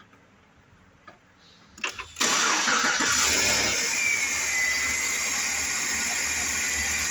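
2008 GMC Yukon XL's V8 engine cranking briefly and catching about two seconds in, then running steadily. A faint whine slides down in pitch a couple of seconds after it starts.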